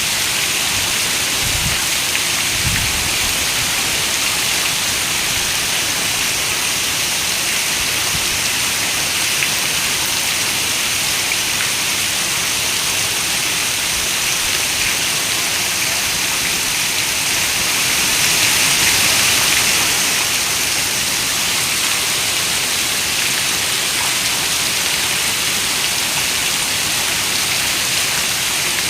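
Steady rain falling on a window, a dense hiss of drops, with a couple of soft low thumps a couple of seconds in and a brief swell in strength about two-thirds of the way through.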